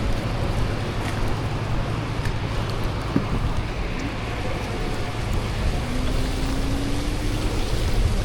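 Steady city street traffic noise, a low rumble of passing vehicles, with a faint rising whine near the end.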